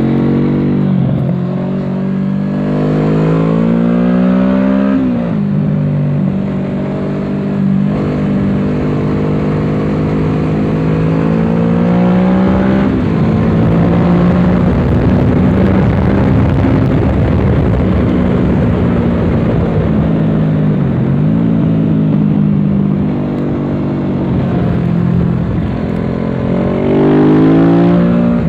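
Kawasaki Z650's parallel-twin engine through a Dominator exhaust, heard from the bike while riding on a track: the revs climb and drop sharply several times with gear changes and braking, and climb again near the end. A rushing noise builds over the engine in the middle stretch.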